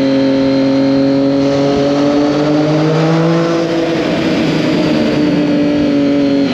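Triumph Daytona 675's inline three-cylinder engine running hard at a steady pitch, rising slightly a few seconds in, then easing off a little.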